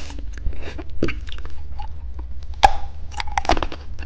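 Candy and its plastic packaging being handled up close: scattered small clicks and crackles, with louder clicks about two and a half and three and a half seconds in.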